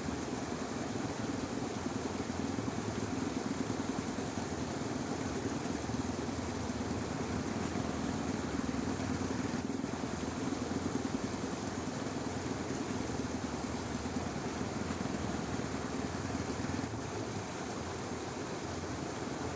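Frogs calling in a dense, continuous chorus, a low fluttering croak over a steady hiss with no single call standing out.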